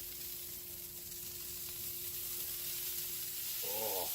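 Steady sizzling hiss from a BBQ smoker with two whole chickens cooking inside, over a faint steady hum.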